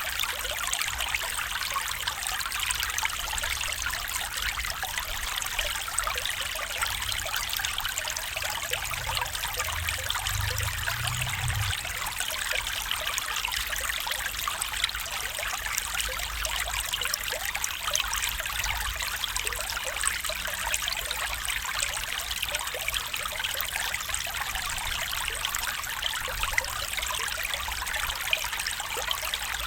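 A small stream trickling and babbling over stones, a steady, even flow of water. A brief low rumble passes about a third of the way in.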